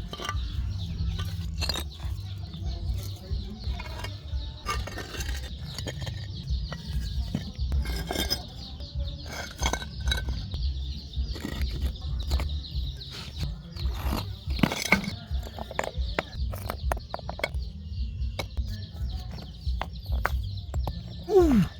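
A steady high-pitched insect drone, with scattered clicks and rustles and a constant low rumble on the microphone.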